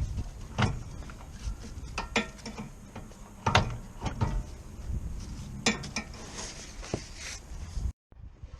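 Irregular clicks, knocks and clunks of hand tools and metal parts being handled during car repair work. The sound drops out for a moment near the end.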